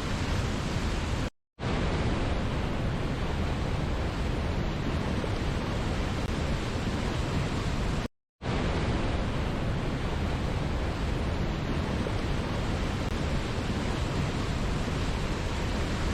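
Steady rushing noise of a waterfall, even across low and high pitches. It is broken twice by a sudden gap of silence about a quarter second long, once about a second in and again about halfway through, where a short recording is looped.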